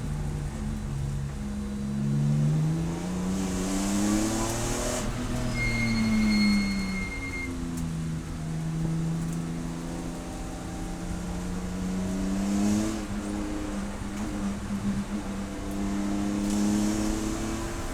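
Race car engine at speed, its pitch climbing under acceleration and dropping sharply about five seconds in and again about thirteen seconds in, as it brakes and shifts down. A brief high whine sounds about six seconds in.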